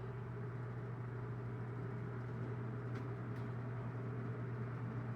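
Vintage SuperElectric 14-inch box fan running on its high setting, its motor giving a strong, steady low hum under an even whoosh of air while it is still slowly coming up to speed.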